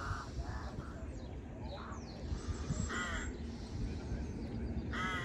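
Crows cawing: about five short caws spread through, over a steady low rumble.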